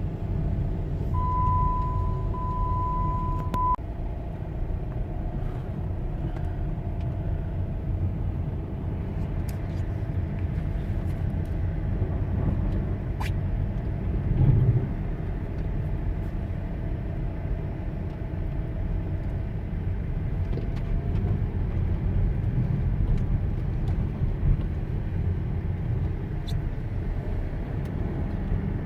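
Jeep Compass on an icy road, heard from inside the cabin: a steady low rumble of engine and road noise. An electronic beep sounds for about three seconds near the start, and there is one louder bump about halfway.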